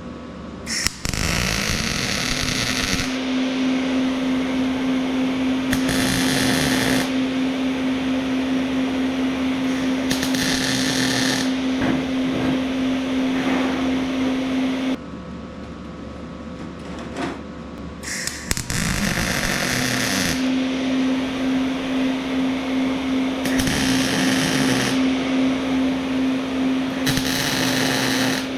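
Angle grinder spinning up and running at a steady whine, grinding steel in several short passes that add a harsh hiss on top. It shuts off about halfway through, then spins up again a few seconds later.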